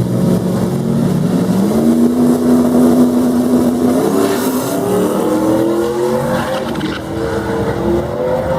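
Race car engine running hard under acceleration, its pitch stepping up about two seconds in and then climbing steadily.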